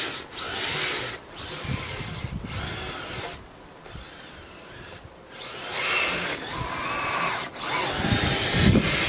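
Twin brushless 2838 2800KV motors of an RC snowcat whining, the pitch rising and falling with the throttle in several bursts. The whine falls away briefly twice.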